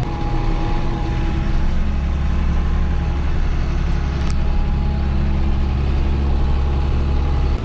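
John Deere 7810 tractor's diesel engine running steadily while driving, heard from inside the cab as a loud, even low drone with a faint steady whine above it.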